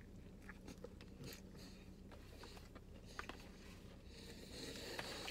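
Faint biting and chewing of a fried chicken sandwich, with small scattered mouth clicks over a low steady hum. A soft rustle builds near the end.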